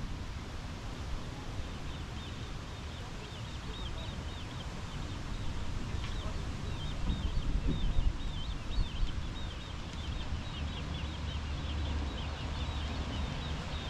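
A bird calling in a rapid, continuous run of short high chirps, starting about two seconds in, over a low rumble.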